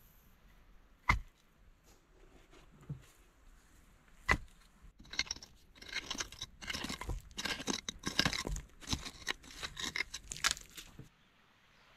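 A short-handled digging tool striking into packed earth: two sharp single blows, then about six seconds of rapid crunching and scraping as soil is dug and loosened. The digging stops suddenly near the end.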